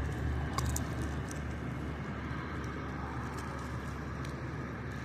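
Steady low engine rumble, with a few faint clicks about half a second in.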